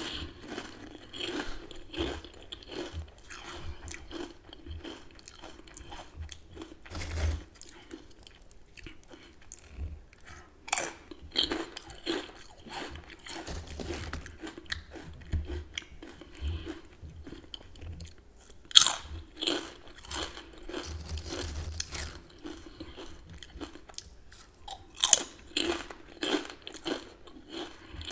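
Close-miked person biting and chewing crunchy chips, a run of crisp crunches with steady chewing between them. The two sharpest bites come about two-thirds of the way through and near the end.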